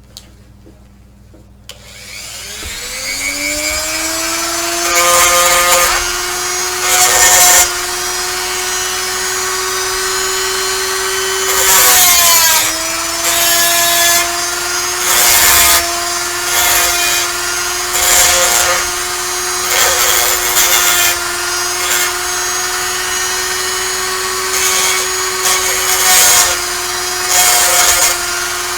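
Handheld rotary tool spinning up about two seconds in to a steady whine, with a pointed bit pressed on and off against a pewter cast, giving repeated short bursts of scratchy grinding over the motor. The motor pitch sags briefly around the middle, then recovers.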